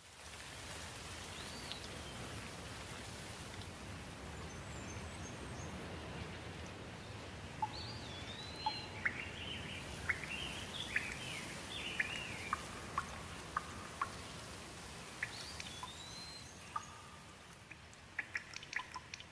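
Steady rushing water of a forest stream with birds calling over it: a rising-and-falling whistled note about two seconds in, again around eight seconds and near fifteen seconds, and a run of quick chirps in between.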